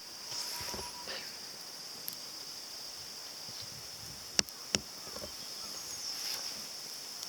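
Steady high-pitched insect chorus, with two sharp snaps close together about four and a half seconds in.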